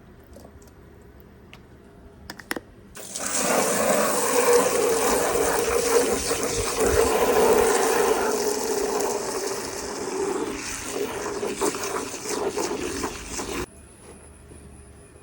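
Jet of water spraying hard during a vehicle wash, starting abruptly about three seconds in after a couple of sharp clicks, running steadily for about ten seconds, then cutting off suddenly.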